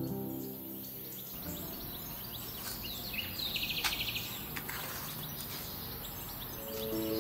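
Quiet background with birds chirping, including a short rapid high trill about halfway, and a few light clicks. Soft music fades out at the start and comes back near the end.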